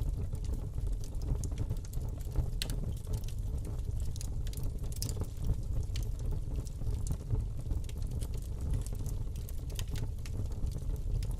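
Wood fire burning in a fireplace: a steady low rumble of flame with frequent small crackles and sharper pops scattered irregularly through it.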